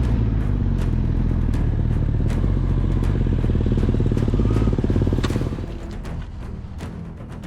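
A motorcycle engine running steadily, then dropping away about five and a half seconds in, under background music with a steady beat.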